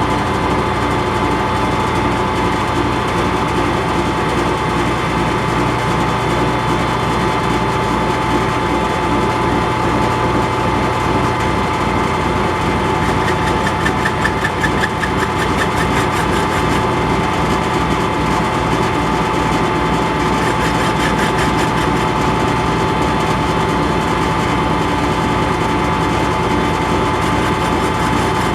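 Metal lathe running steadily under power while a boring bar cuts inside a bore, its tool angle just readjusted to cut better.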